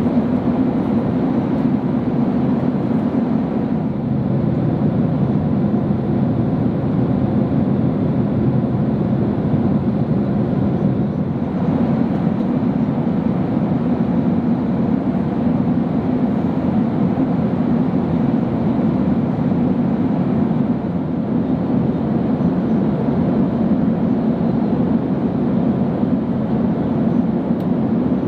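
Steady roar inside a Boeing 767-300 airliner cabin in flight: engine and airflow noise, with no change in level.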